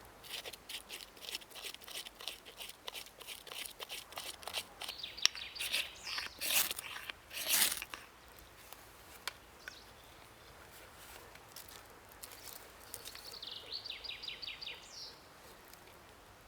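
Knife scraping birch bark into fine shavings, a run of quick scrapes, then two louder ferro rod strikes about six and a half and seven and a half seconds in.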